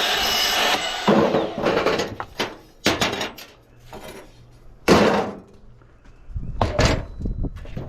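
A power tool cutting scrap aluminum runs and stops under a second in. Then come separate metal clanks and bangs of scrap pieces being handled, the loudest about five seconds in.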